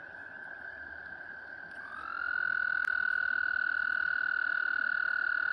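Frogs trilling: one long, steady high trill at the start, then a louder trill from another frog that slides up into pitch about two seconds in and holds.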